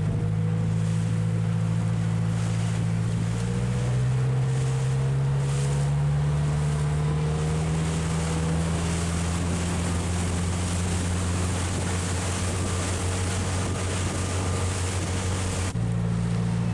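A boat engine runs in a steady drone with a slight shift in pitch about four seconds in, over rushing water and wind noise on the microphone.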